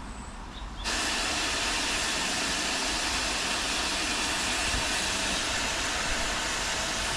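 Steam locomotive letting off steam: a steady hiss that jumps loud about a second in and holds without any chuffing rhythm.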